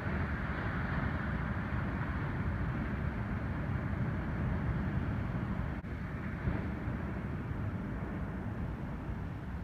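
Ocean surf from a building typhoon swell: a steady wash of breaking waves, with wind rumbling on the microphone.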